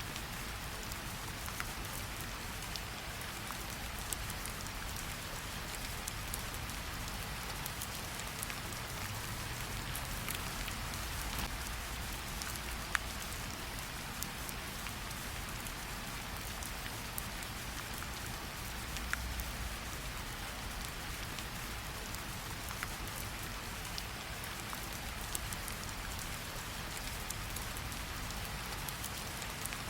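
Steady rain falling on tree leaves, a soft even patter with scattered louder individual drips.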